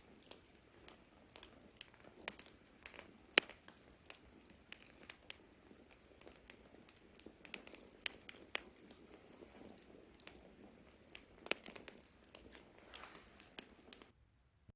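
Campfire crackling: burning wood giving off frequent irregular sharp pops and snaps over a soft steady hiss. It cuts abruptly to silence near the end.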